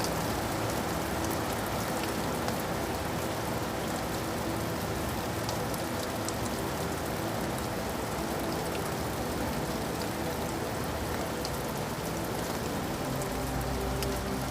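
Steady rain falling: a dense, even hiss with scattered drop ticks. A low rumble comes in near the end.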